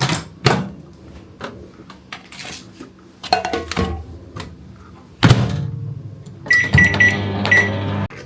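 Scattered clicks and knocks, then a steady electric appliance hum with a few short high electronic beeps; the hum cuts off suddenly near the end.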